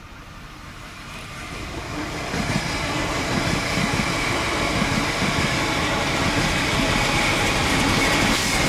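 Victorian Railways K class 2-8-0 steam locomotive K160 and its train approaching, growing steadily louder over the first few seconds and then running loud and close, with a fast low rhythm from the engine and running gear.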